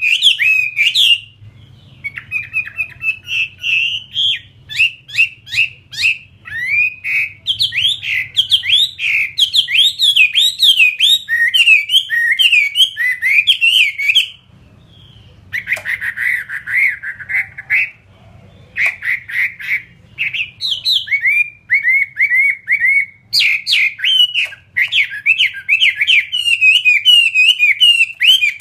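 Chinese hwamei singing a loud, fast run of varied whistled phrases and trills, with short breaks about two seconds in and near the middle.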